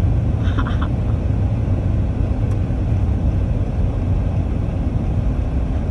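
Steady low rumble of a car's engine and tyres, heard from inside the cabin while driving. A brief high-pitched sound comes about half a second in.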